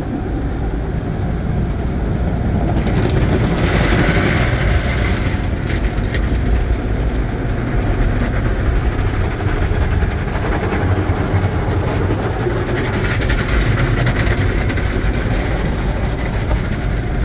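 Automatic tunnel car wash equipment heard from inside the van's cabin: a steady low rumble, with a hiss of water and soap spray against the body that starts about three seconds in and swells again near the end.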